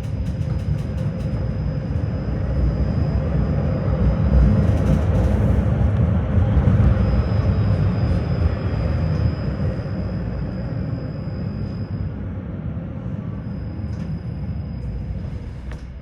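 Tram running along its track, heard from inside the car: a steady low rumble of wheels on rails with a thin high whine that comes and goes. It grows louder toward the middle and eases off again, with a few quick clicks in the first second.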